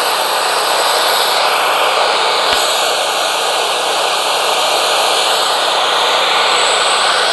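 Wood-Mizer LT40 Wide sawmill's band saw cutting through a yellow pine cant: a loud, steady noise of blade and engine, with a single click about two and a half seconds in.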